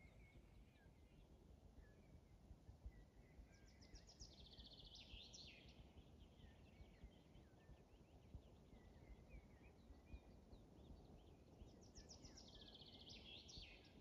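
Faint birdsong: a songbird sings a quick trilled phrase ending in a falling flourish a few seconds in, and again near the end, over scattered soft chirps from other birds and low steady background noise.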